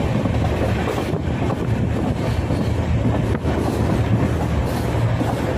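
Humsafar Express train running at speed, heard from inside the coach as a steady rumble with a couple of faint knocks from the running gear.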